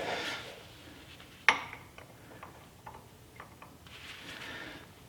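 Metal hand tools clinking and tapping as they are handled, with one sharper clink about a second and a half in followed by several light taps.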